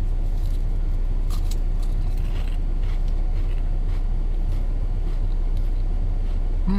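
Pringles crisps being chewed, a few faint crunches in the first three seconds, over a steady low rumble like that of a car cabin.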